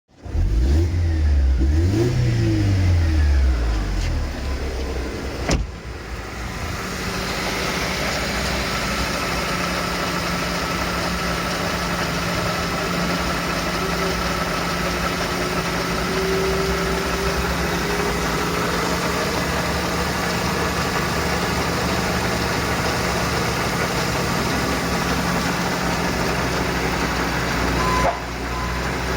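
Engine running on test: its speed rises and falls in the first few seconds, loudest then, a sharp click comes about five and a half seconds in, and it then settles into a steady, even run.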